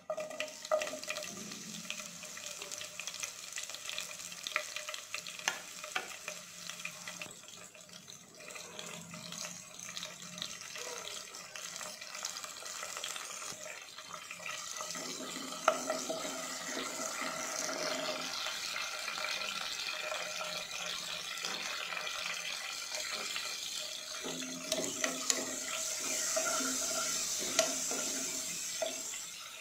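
Green chillies and curry leaves sizzling and crackling in hot oil with cumin seeds in a pot, the tempering stage of a curry, with many small sharp pops. The frying gets busier about halfway through, and a ladle stirs it near the end.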